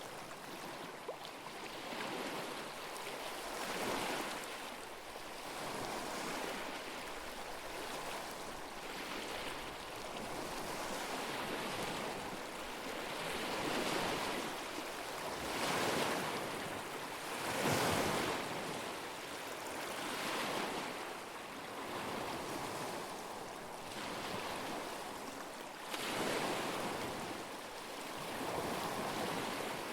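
Small lake waves washing onto the shore, the sound swelling and falling back every couple of seconds.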